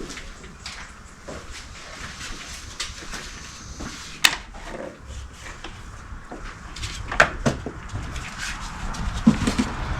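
Tools and parts being handled during engine assembly: scattered clicks and light knocks, with a few sharper clacks.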